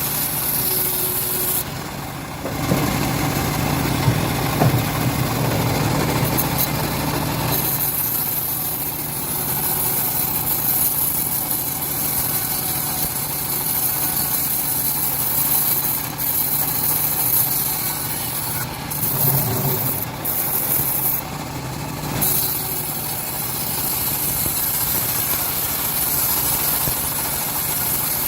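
Homemade bandsaw mill running and cutting a teak log, a steady machine drone with the rasp of the blade in the wood; the deeper part of the drone drops away about eight seconds in.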